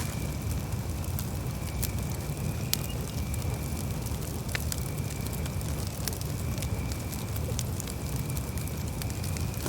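Campfire burning: a steady low rush from the flames with occasional sharp pops and crackles from the burning wood, at irregular intervals.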